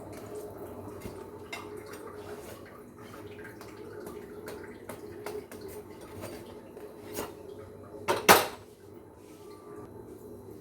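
Metal kitchen utensils and cookware clinking and clattering, with one loud clang about eight seconds in, over a steady low hum.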